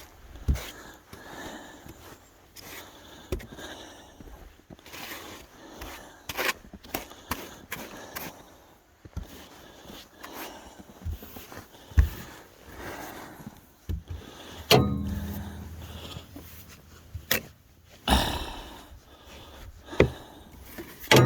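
Snow brush sweeping and scraping snow off a car in uneven repeated strokes, with a few sharp knocks.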